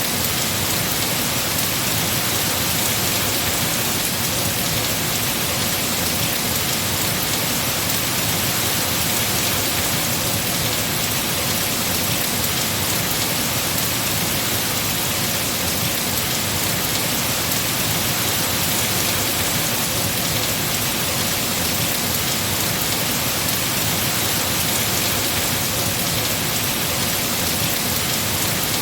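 Heavy rain falling steadily on trees, a dense even hiss of drops on leaves.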